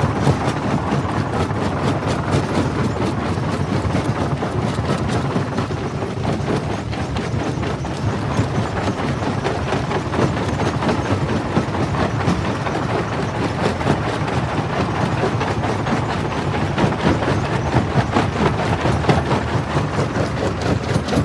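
Jaw crusher running and crushing stone: a steady heavy mechanical rumble with constant clattering and cracking of rock, a little louder in the last few seconds.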